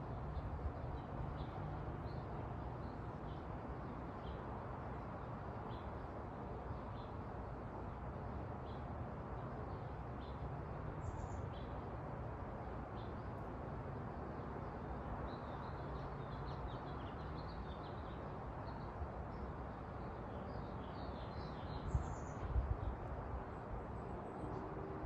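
Small birds chirping faintly at scattered intervals over a steady low outdoor background hum. A few soft bumps near the end.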